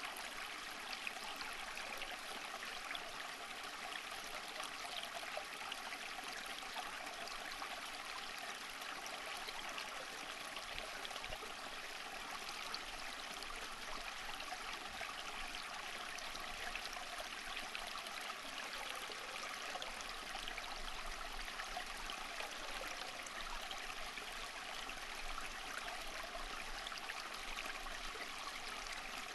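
Running water flowing steadily, as of a small stream.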